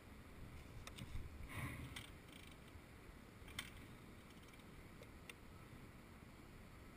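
Near silence: a faint low rumble of outdoor background, with a few scattered clicks and a brief rustle about a second and a half in.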